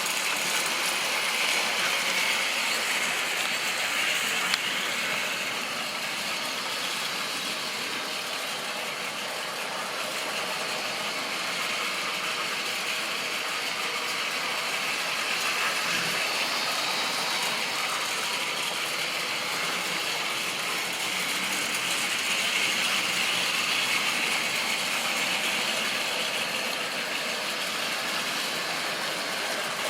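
Model railway train running on its track: a steady whirring and rattling of the locomotive's motor and gears and the wheels on the rails, swelling and fading slowly.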